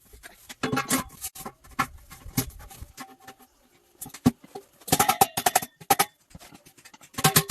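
Irregular clinks and knocks of metal, some ringing briefly, coming in clusters with a short lull in the middle.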